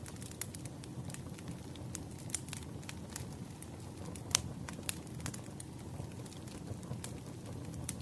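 Wood fire burning, with a steady low rumble and irregular crackles and pops, one louder pop about four seconds in.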